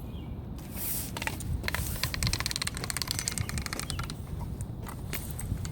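A dog chewing a wooden stick: a quick run of small cracks and crunches from the wood, densest in the middle, with a few scattered cracks near the end.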